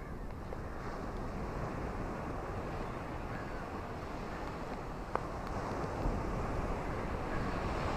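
Ocean waves washing onto a shore, a steady rushing that swells louder in the last couple of seconds, with a single short click about five seconds in.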